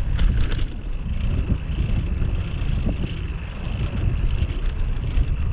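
Wind buffeting the microphone with the low rumble of a bicycle rolling along, with a faint steady high tone over it and a few light clicks about half a second in.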